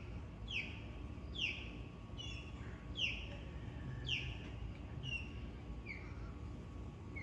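A bird repeating a clear whistled call about once a second, each short note sliding down in pitch.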